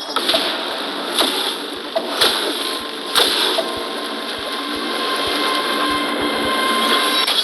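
Beyblade spinning tops whirring and scraping in a plastic stadium, with a few sharp clacks in the first few seconds.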